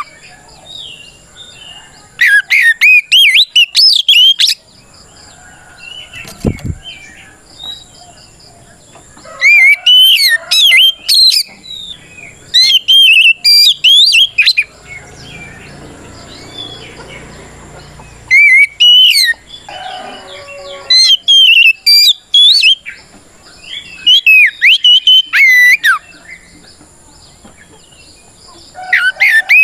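Oriental magpie-robin (kacer) singing loud, rapid whistled phrases that swoop up and down, in bursts of one to two seconds with quieter gaps between. This is its full challenge song, calling out a rival.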